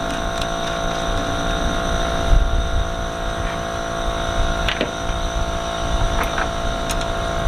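A steady mechanical hum made of several fixed tones over a low rumble, with a few light clicks and knocks from handling parts around the middle and near the end.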